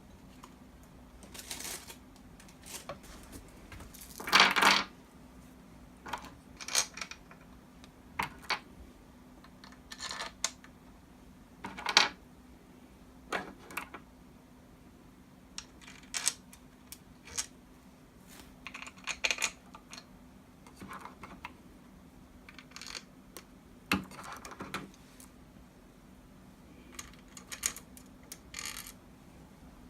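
Small metal engine parts and hand tools clinking and clicking irregularly while a motorcycle engine's bottom end is assembled, with a few louder clanks, over a faint steady hum.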